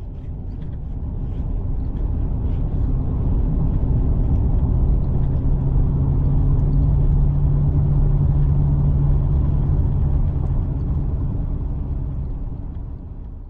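A vehicle driving on a road: steady engine and tyre noise with a low hum. It swells over the first few seconds and fades away near the end.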